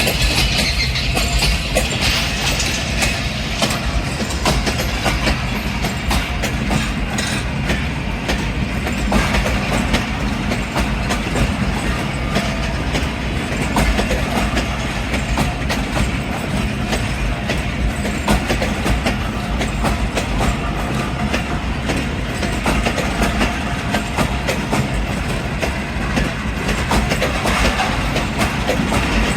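A train running along the track, its wheels clattering steadily over the rail joints, with a continuous rumble and frequent short clicks.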